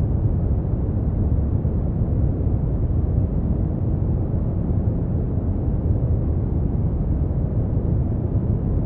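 Brown noise: a steady, deep rumbling hiss, strongest in the lows and fading out toward the highs, unchanging throughout.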